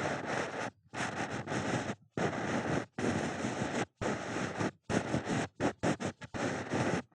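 Ear pick scraping and rubbing close against a microphone's ear in a string of separate strokes, each about half a second to a second long, turning to shorter, quicker strokes near the end.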